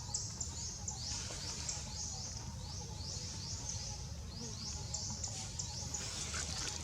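High-pitched chirps repeating steadily, about three a second, over a low steady hum.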